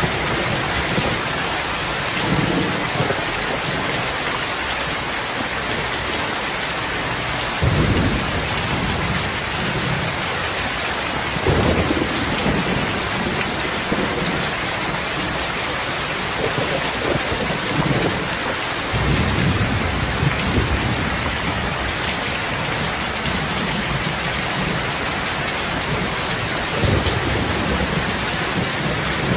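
Steady heavy rain hissing, with low rumbles of thunder swelling and fading several times, the clearest about eight, twelve, nineteen and twenty-seven seconds in.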